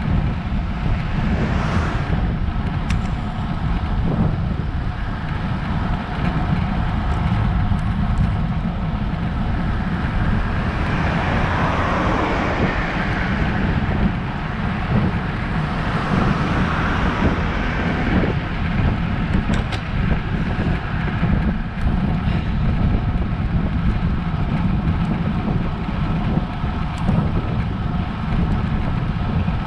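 Wind rumbling steadily on the microphone of a GoPro action camera on a moving road bike, with a fainter hiss of riding noise above it.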